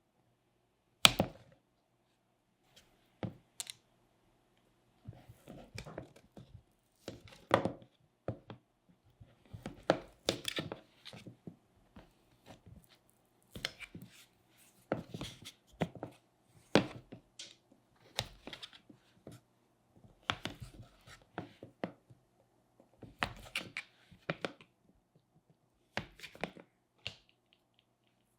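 Hands working modelling clay: irregular short thuds, taps and tearing sounds every second or two, the sharpest about a second in.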